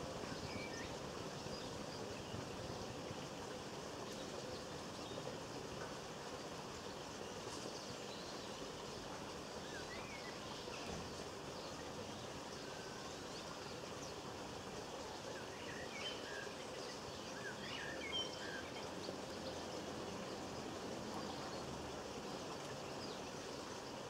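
Faint, scattered short chirps of small garden birds over a steady outdoor background hiss. A few calls come around the middle, and a busier run follows in the second half.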